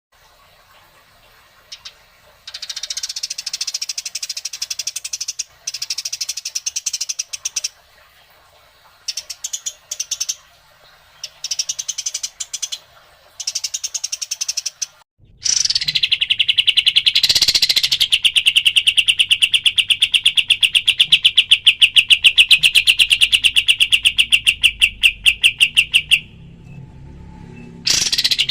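Songbird song: first high, squeaky chattering phrases in short bursts with gaps, then about halfway through a loud, rapid, evenly repeated run of sharp notes lasting roughly ten seconds. The run stops briefly and starts again near the end.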